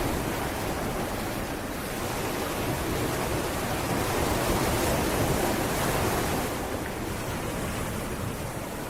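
Sea waves breaking and washing up a beach: a steady rush of surf that swells gently midway and eases off near the end.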